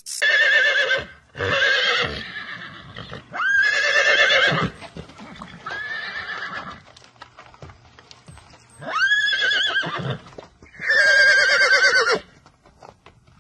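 A horse whinnying again and again, about six calls of roughly a second each with a wavering pitch, some sweeping up at the start.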